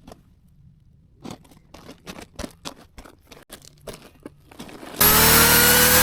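About a dozen irregular light clicks and snaps, then, near the end, an electric saw switches on suddenly and runs loud and steady, its pitch rising slightly as it spins up.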